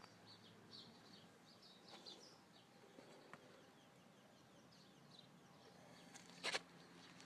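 Near silence with faint bird chirps, and one brief sharp noise about six and a half seconds in.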